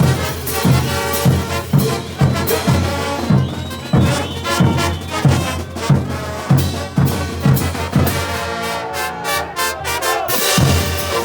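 Bolivian brass band playing: trumpets and trombones over a steady bass-drum beat of about two strokes a second. Near the end the drums drop out for a couple of seconds while the brass carries on, then the beat comes back.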